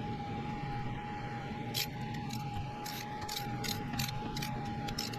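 Ratchet wrench clicking in short strokes as it runs down the cylinder head nuts, about three clicks a second from nearly two seconds in.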